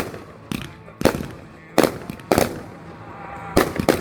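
Consumer fireworks going off in a rapid, irregular series of about eight sharp bangs, some coming in quick pairs, with a song playing faintly underneath.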